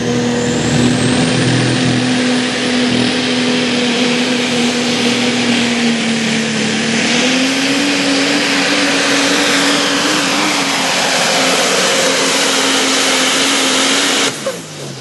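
Triple-turbocharged 2002 Dodge diesel pickup pulling the sled at full throttle: a loud, steady engine note under a dense rushing noise, its pitch climbing a little about halfway through. Near the end the power cuts off suddenly and the engine note falls away as the run ends.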